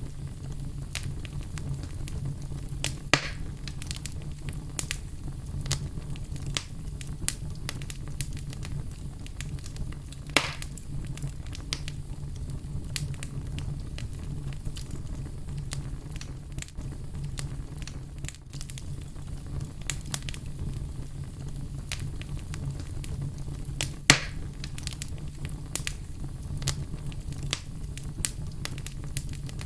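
Fire crackling steadily: a low rumble of burning under a dense run of small crackles, with a few louder pops, three of them standing out.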